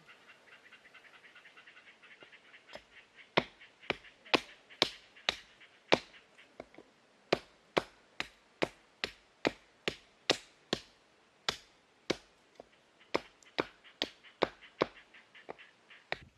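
A long series of sharp knocks, about two a second, starting a few seconds in and stopping shortly before the end, with faint high chirping in the first couple of seconds before the knocking begins.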